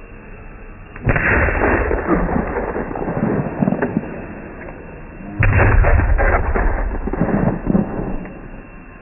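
Fireworks going off: two loud bursts about four seconds apart, each followed by a couple of seconds of dense crackling that dies away.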